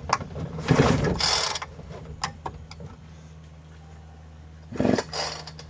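Newly started Husqvarna 460 Rancher chainsaw's two-stroke engine running on choke at a steady low idle, with short louder bursts about a second in and near five seconds.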